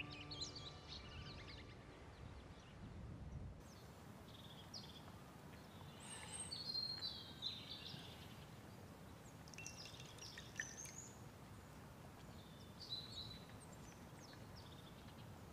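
Small birds chirping and trilling in short, scattered phrases over a faint, steady outdoor background.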